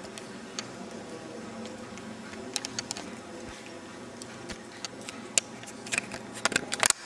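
Scattered sharp clicks and taps over a steady background hum, coming more thickly toward the end.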